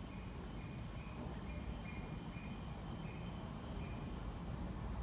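Low, steady rumble of a Tobu Spacia X express train pulling slowly into the platform, with short high chirps repeating about once a second over it.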